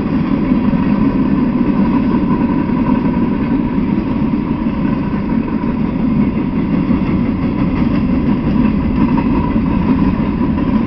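Freight train of open hopper cars rolling past on the tracks: a steady, unbroken noise of steel wheels on rail.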